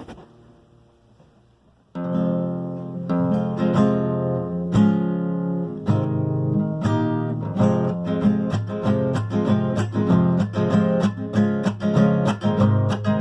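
Acoustic guitar strumming chords as an instrumental song intro: faint fading notes at first, then the strumming starts abruptly about two seconds in and settles into a quicker, steady rhythm for the rest.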